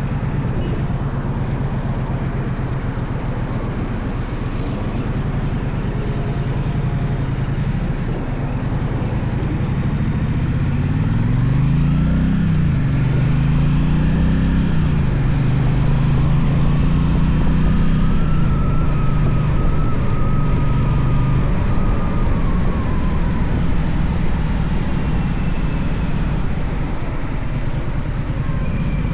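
Gaokin GK1200 motorcycle engine running under way, revving up twice with a drop in pitch after each, like upshifts while accelerating, then holding a steady cruising note.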